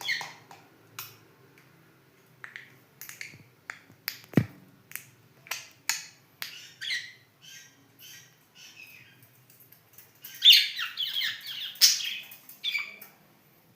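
Budgerigars chirping and chattering: a string of short, sharp chirps and clicks, then a louder run of warbling chatter about ten seconds in. A single sharp click stands out about four seconds in.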